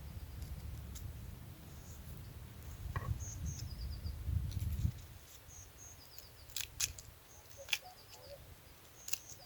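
Small birds chirping in short high notes, over a low rumble that stops about halfway through. A few sharp clicks or taps come in the second half.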